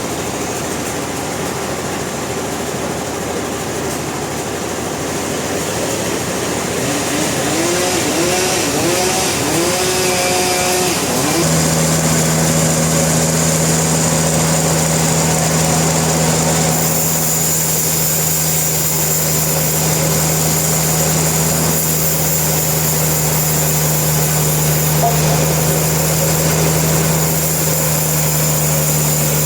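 Sawmill machinery running steadily, with a few short rising whines about seven to eleven seconds in, then a steady machine hum on one pitch.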